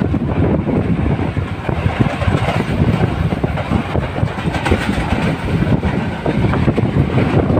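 A train running along the track, heard aboard: a steady loud rumble with many irregular knocks of the wheels over the rails.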